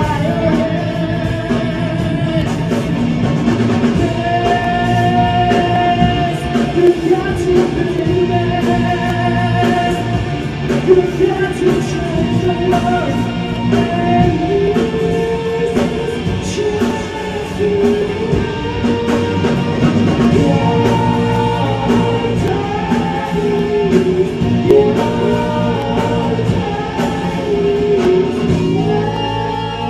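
A rock band playing, with a singer over electric guitar and a drum kit at a steady, loud level.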